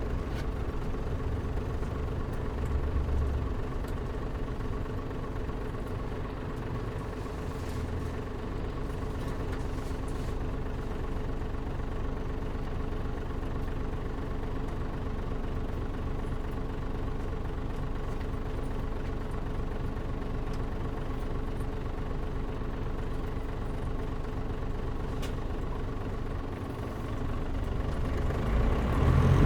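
Diesel engine of a Mitsubishi Fuso Aero Star non-step city bus (KL-MP37JM), heard from inside the cabin, idling steadily with an even hum, air conditioning off. It grows louder near the end.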